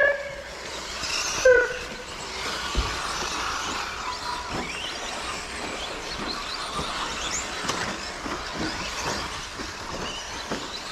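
Several electric 1:10 RC short course trucks racing, their motors whining up and down in pitch as they accelerate and brake over a steady rush of tyre and drivetrain noise. There are a few sharp clicks, and two short beeps in the first couple of seconds.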